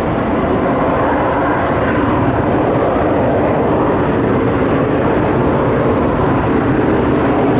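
Jet airliner engines running, a loud, steady rush with a low rumble.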